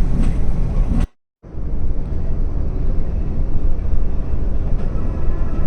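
Steady low rumble of a Scania multi-axle coach on the move, engine and road noise, cut off for a split second about a second in before it resumes unchanged.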